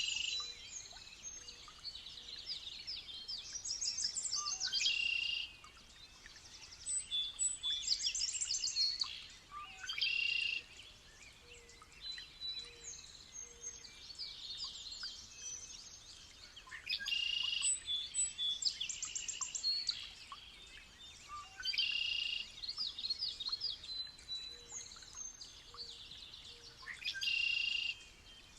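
A songbird singing short high-pitched phrases, each a second or two long, repeated every few seconds.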